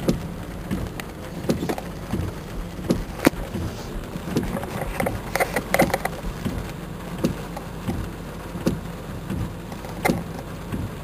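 Steady hum of a car's engine and road noise heard from inside the cabin, with scattered light taps and clicks.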